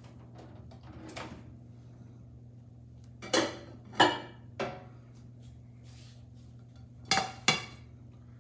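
A plate and bowl clattering as they are handled: three sharp clinks about three to four and a half seconds in, then two more close together near the end, over a steady low hum.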